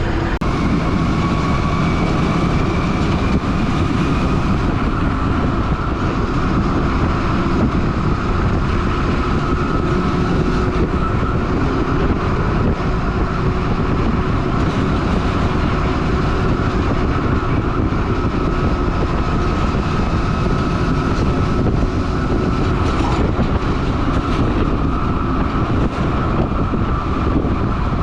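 Stewart & Stevenson M1078 LMTV military truck driving at a steady speed: a dense, steady diesel and road rumble with a steady whine running over it.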